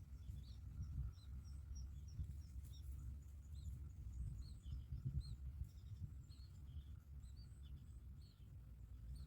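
Small birds chirping: many short, high chirps, some in quick runs, over a steady low rumble.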